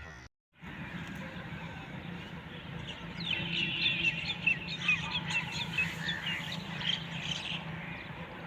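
Birds chirping in short, quick, overlapping calls, busiest from about three to seven seconds in, over a steady low background noise.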